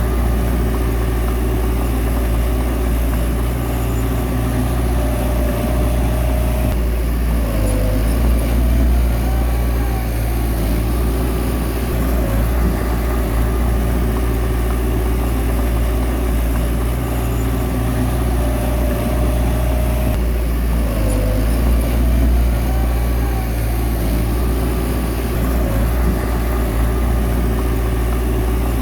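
Komatsu bulldozer's diesel engine running steadily while pushing soil, its note shifting about seven seconds in and again about twenty seconds in.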